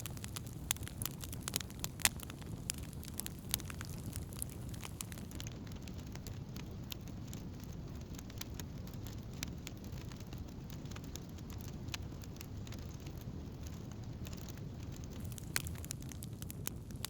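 Wood campfire crackling, with frequent sharp pops and snaps over a low steady rumble; the pops thin out for several seconds in the middle and pick up again near the end.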